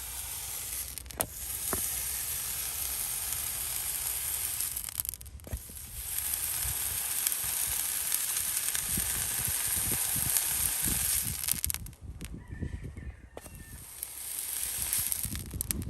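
Hot horseshoe held against the hoof wall, the horn sizzling and crackling in long steady spells, broken briefly about five seconds in and dying down about twelve seconds in before a shorter spell near the end.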